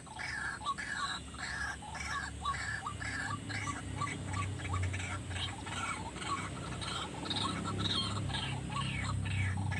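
White-breasted waterhen calling in a fast, even series of short croaking notes, about three a second, over a low rumble that grows louder about three seconds in.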